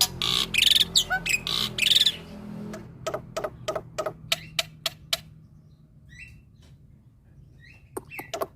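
Male black-winged starling (jalak putih) singing: harsh, rasping squawks for the first two seconds, then a run of sharp, clipped notes about three a second. A quieter stretch with a few faint chirps follows, and the sharp notes start again near the end, over a steady low hum.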